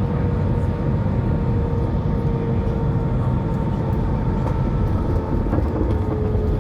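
Airliner cabin noise: the engines running steadily under a low rumble, with a thin whine that drifts slightly lower.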